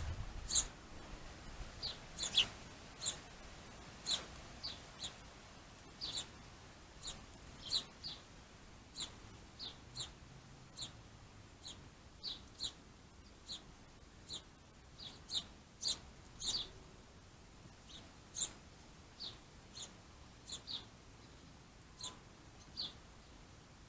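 A small bird chirping: short, sharp calls repeated irregularly, about one or two a second.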